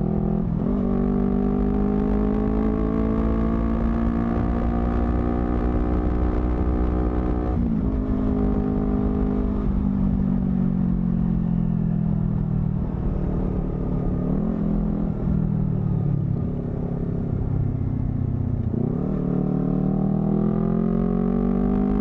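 Honda CBR250RR's parallel-twin engine through a modified exhaust, heard from the rider's seat: it climbs in revs with short sharp breaks at the gear changes, sinks slowly for several seconds as the bike slows, then pulls up through the revs again near the end. A low wind rumble runs underneath.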